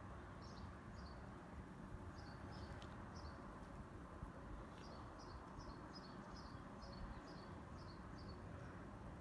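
A small bird chirping repeatedly outdoors, short high falling chirps that come in a quicker run of about three a second past the middle, over a faint steady low rumble.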